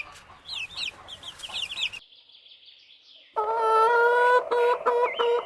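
Chicks peeping in rapid, high, downward-sliding chirps for about the first two seconds. After a brief lull, an adult chicken gives a loud drawn-out call from about three seconds in, breaking into short repeated calls near the end.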